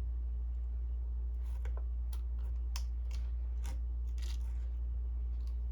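Scattered small plastic clicks and taps, about a dozen over three or four seconds, from handling an inkjet ink cartridge and refill syringe, over a steady low hum.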